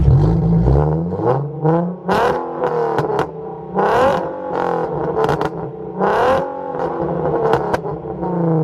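Car engine with a loud aftermarket exhaust revved hard several times, its pitch climbing and dropping with each blip, with sharp pops and crackles mixed into the revs.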